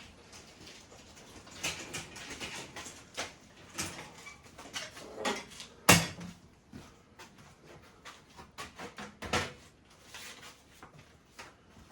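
Irregular knocks, clatter and rustling of things being handled and set down, with one sharp knock about six seconds in.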